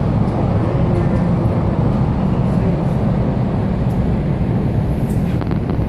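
Steady low rumble of a ferry's engines, heard aboard the ship as it leaves port.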